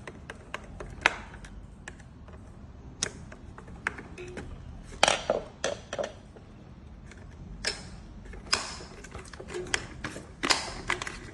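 Irregular clicks, taps and light clatter of small hard parts being handled, such as a screw and nut on a wheel fitting being worked by hand. The sounds bunch into quick flurries about five seconds in and again near the end.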